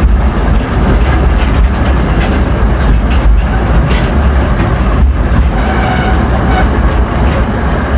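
Narrow-gauge forest railway train running, with a steady low rumble and wheels clicking over rail joints. A faint squeal comes in around six seconds in.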